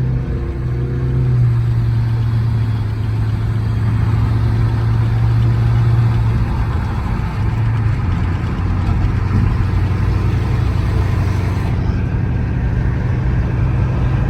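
Chrysler 300's Hemi V8 running at a steady cruise, a deep even drone over road and tyre noise; its pitch eases slightly lower about halfway through.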